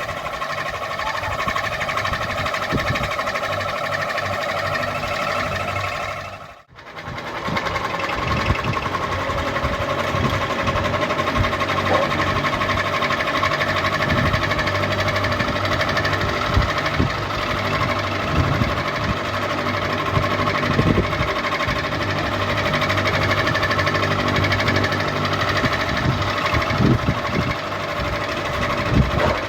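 Electric ceiling fan running steadily: an even motor hum with faint irregular ticks. The sound dips out briefly about a quarter of the way through, then carries on unchanged.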